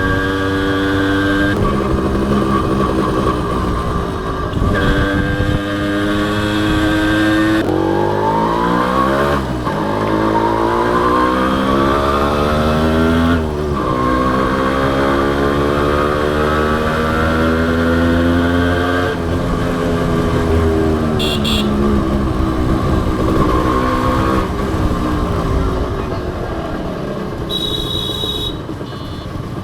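Honda CDI H100S motorcycle engine running under way, its pitch climbing as it accelerates and dropping suddenly at each gear change, several times over, then easing off and falling in pitch about two-thirds of the way through.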